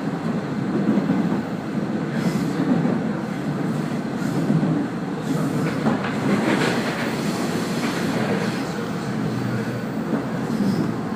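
Train running along the track, heard from inside the car: a steady rumble of wheels on rail with a few clacks over rail joints. The train is the Kazekko, a converted KiHa 48 diesel railcar.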